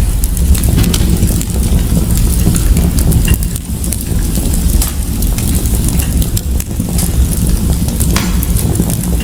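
Fire burning in a fireplace: a steady low rumble under scattered crackles and sharp pops.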